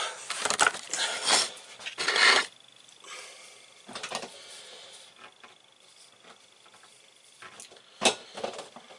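Handling noises: a run of rustles and knocks during the first couple of seconds, then quiet with a faint steady high tone, and one sharp click about eight seconds in.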